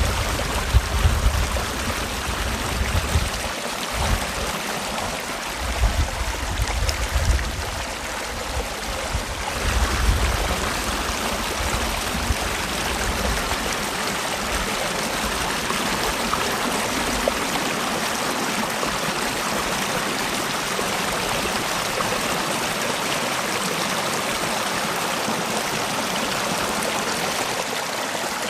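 Mountain stream in a rocky valley, water rushing and splashing over rocks in a steady hiss. Low wind gusts buffet the microphone during roughly the first twelve seconds, then die away.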